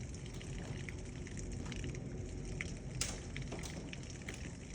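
Hail ticking against a window pane at irregular moments over a steady hiss of heavy rain. The sharpest tick comes about three seconds in.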